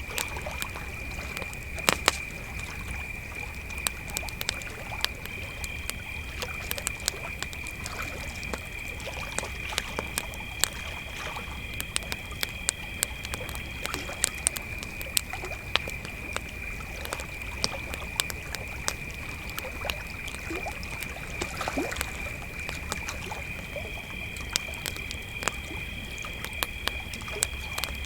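Crickets trilling in one steady high-pitched tone, with a second cricket at a slightly higher pitch joining for two long stretches. A campfire crackles and pops irregularly over it.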